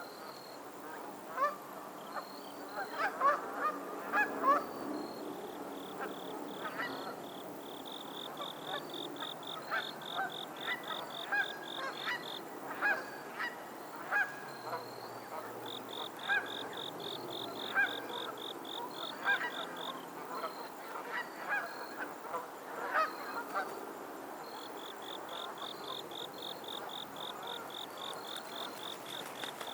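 A flock of geese honking on a lake, with many short, overlapping honks that are loudest and thickest a few seconds in. A rapid, high-pitched trill sounds three times behind them, each lasting about four to five seconds.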